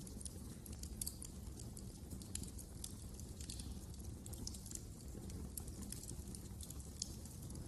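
Wood fire burning in a fireplace: a low steady rumble with frequent small, irregular crackles and pops.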